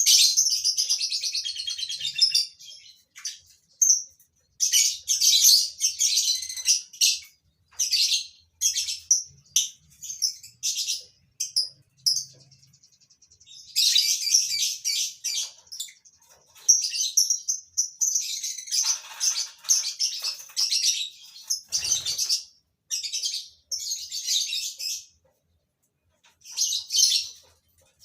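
A flock of lovebirds chattering in rapid bursts of shrill chirps, broken by short pauses, with a single knock about three-quarters of the way through.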